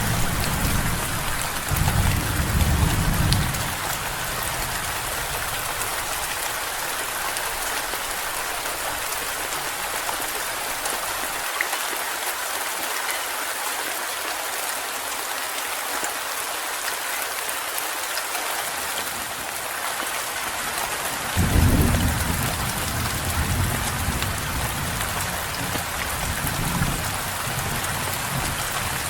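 Steady heavy rain hissing, with deep rolls of thunder rumbling at the start and again from about two-thirds of the way through.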